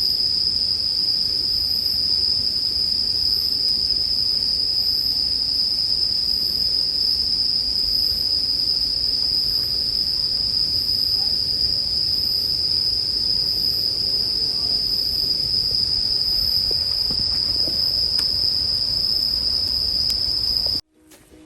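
Bell crickets singing in a continuous high-pitched chorus, with a low crackle of a campfire underneath. Everything cuts off abruptly near the end.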